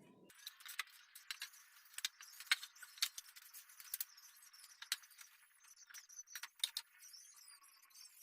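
A run of irregular light clicks and clinks, small hard objects knocking and rattling together.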